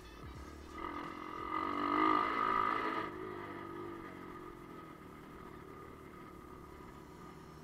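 125 cc pit bike engine revving up, loudest about two to three seconds in, then dropping back to a lower steady running sound.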